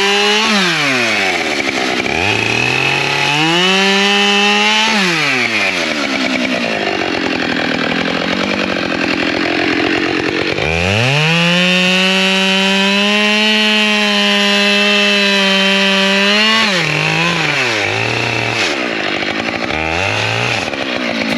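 Two-stroke chainsaw cutting firewood. It revs up, its pitch sags under load in the cut and climbs back, holds at high speed for several seconds, then drops to idle with one short blip of the throttle near the end.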